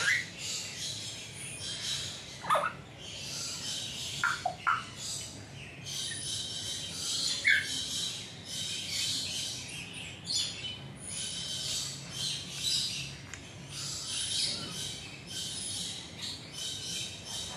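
Birds chirping and calling: a dense, high chatter that comes in repeated bursts, with about five short, sharp downward-sliding calls standing out in the first half.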